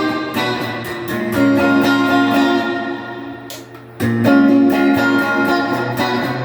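Donner DST200 electric guitar played clean through an amp, chords strummed and left to ring, with a fresh strum about four seconds in. The pickup selector is one position up with the humbucker's coil-split knob pulled up.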